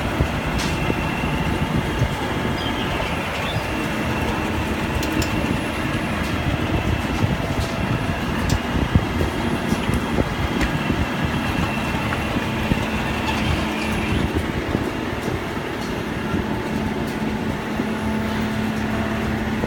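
Machinery running steadily, with scattered sharp clicks and a steady low hum that joins about four seconds in.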